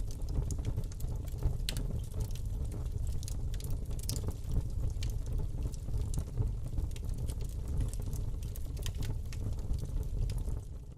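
Wood fire burning in a fireplace, crackling with many irregular small pops and snaps over a low, steady rumble of the flames.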